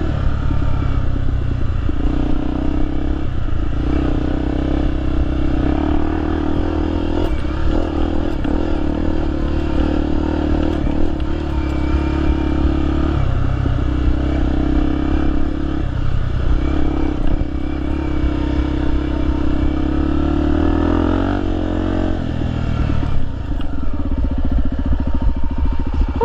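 Honda XR 250 Tornado's single-cylinder four-stroke engine under way, heard from on the bike, its revs rising and falling with the throttle and dipping briefly several times. Near the end the revs climb and then fall away to a lower, steadier beat.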